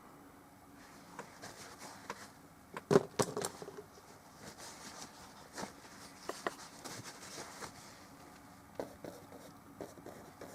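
Oil paint brush working on a small canvas panel: light scratchy strokes and small taps, with a few sharp knocks about three seconds in.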